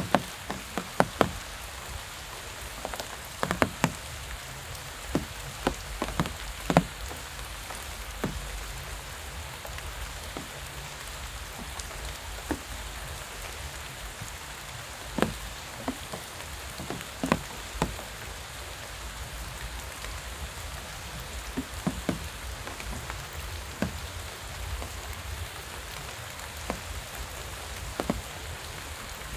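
Steady rain falling, an even hiss broken by irregular sharp taps of single drops landing close by.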